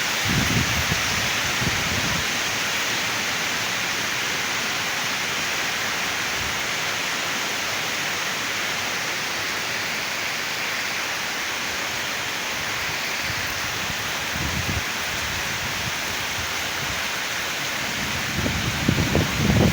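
Heavy rain pouring steadily in a rainstorm, with gusts of strong wind rumbling on the microphone about half a second in and again near the end.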